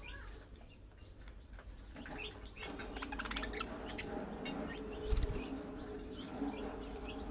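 Budgerigars chattering with many quick chirps and warbling notes, and a brief low thump about five seconds in.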